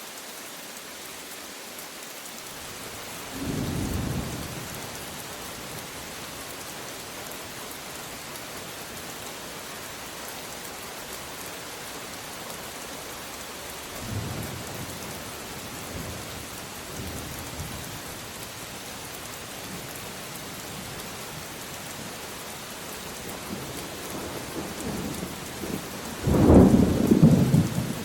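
Steady rain with thunder rumbling: a short rumble about three seconds in, a few fainter ones in the middle, and the loudest, longest rumble near the end.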